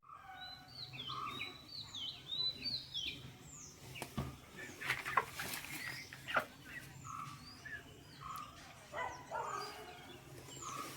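Birds chirping: many short, high peeps, repeated throughout, with a few sharp knocks near the middle.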